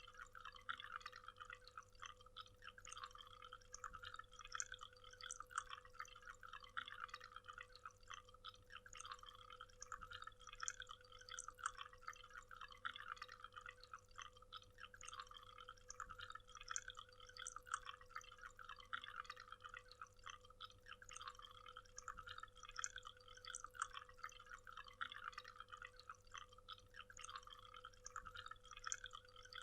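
Waterfall: falling water splashing steadily and quietly, an even patter with no pauses, over a faint steady hum.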